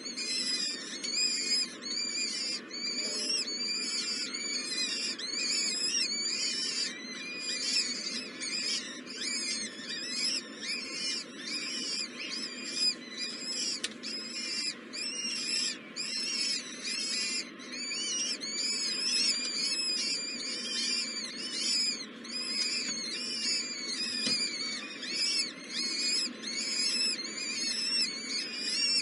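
Baby birds in a nest calling: a continuous series of high, thin, arched notes repeated about once or twice a second.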